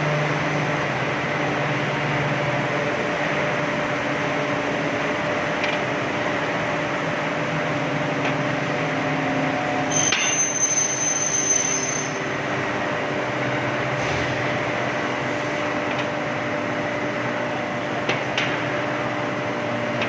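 Glass tempering furnace running, a loud, steady industrial machine noise with a faint hum. About halfway through there are two seconds of clicking with a high whine.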